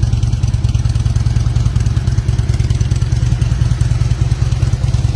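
Harley-Davidson motorcycle's V-twin engine idling steadily, with a fast, even exhaust pulse.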